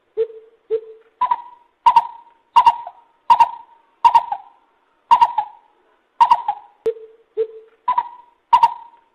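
Lesser coucal calling: two low hoots, then a run of higher hoots about one every 0.7 s. About seven seconds in come another two low hoots, and the higher series starts again.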